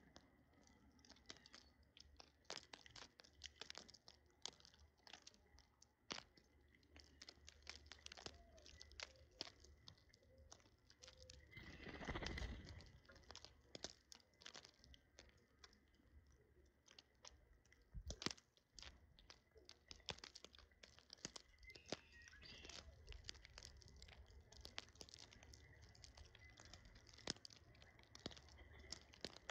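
Faint, scattered clicks and crackles of small birds pecking and picking at food, with a brief louder rustle about twelve seconds in.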